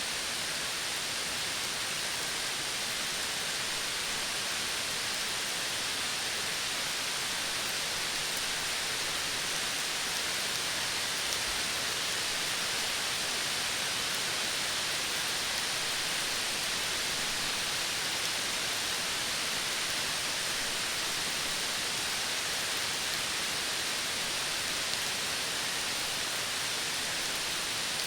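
Outdoor nature ambience: a steady, even hiss with no distinct calls or events.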